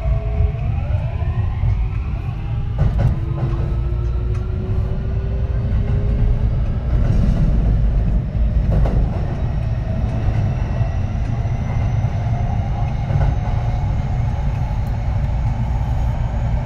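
Kintetsu 3220 series electric train running, its Hitachi IGBT VVVF inverter and traction motors whining in several tones that rise in pitch as it picks up speed, over a heavy rumble of wheels on track. A few rail-joint clicks come through.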